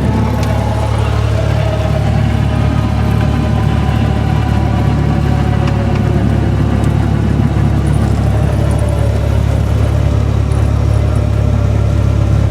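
Cessna 172R's four-cylinder Lycoming engine and propeller running steadily, a constant low drone with a faint higher hum that drifts slightly in pitch.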